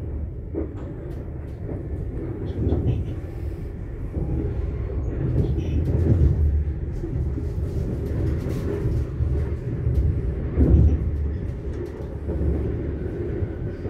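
Inside a Südostbahn electric passenger train on the move: a steady low running rumble of the carriage on the rails, swelling and easing now and then.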